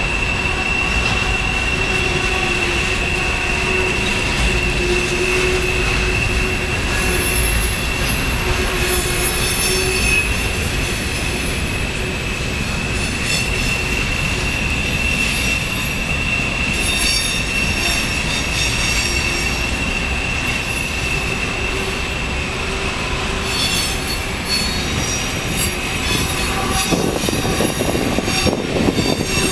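Empty coal hopper cars of a freight train rolling past, their wheels giving a steady high-pitched squeal on the rails, with extra shriller squealing in the second half.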